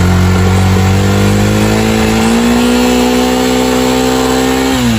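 Yamaha motorcycle engine held at high revs, its pitch creeping slowly upward, then the revs drop away near the end. It is being revved so the battery's charging voltage can be read on a bike that starts poorly from a weak battery.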